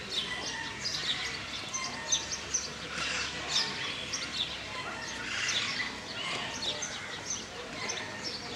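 Birds chirping and singing, many short high calls overlapping without a break.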